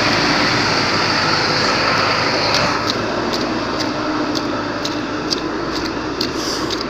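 A vehicle on the move in the rain: a steady rush of engine and road noise with a low hum. From about halfway through, irregular sharp ticks come in several times a second.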